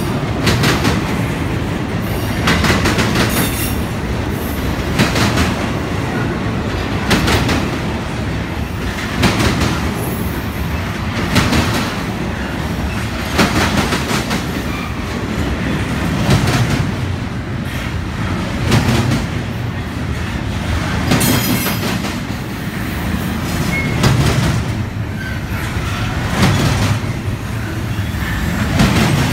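Double-stack intermodal freight cars rolling past close by: a steady rumble of steel wheels on rail with a clack of wheels over the rail joints about every two seconds, and a few brief high wheel squeals.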